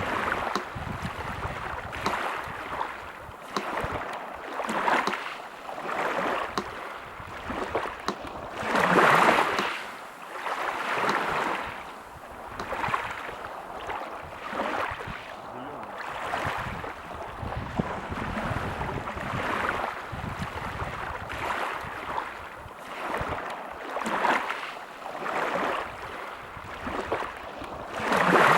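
Sea surf washing in, its noise swelling and fading every second or two, with two larger waves, one about a third of the way in and one near the end, under the faint, steady ticking of a metronome.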